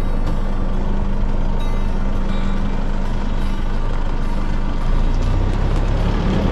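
4x4 vehicle driving on a dirt track: steady engine note with continuous road noise and scattered light rattles.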